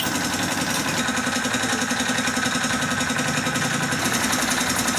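Honda CD 70 motorcycle's small single-cylinder four-stroke engine idling steadily, with a quick, even pulse.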